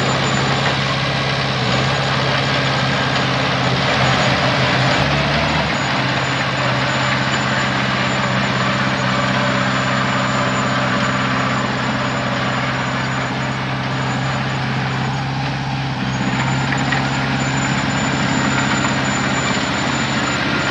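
Heavy diesel engine running steadily, with a brief change in pitch about four to six seconds in.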